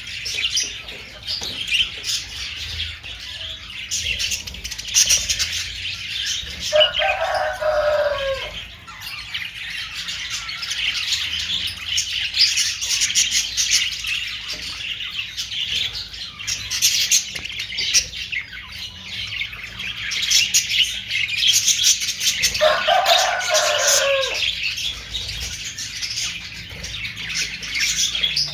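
A flock of budgerigars chattering and chirping continuously in fast, high warbles. A lower, longer call that falls at its end cuts in twice, about a quarter of the way in and again about three-quarters in.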